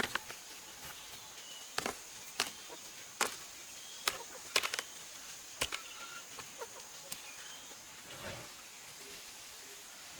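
Irregular sharp knocks or taps, about eight of them spread over several seconds and thickest in the middle, over a steady high-pitched hiss or drone.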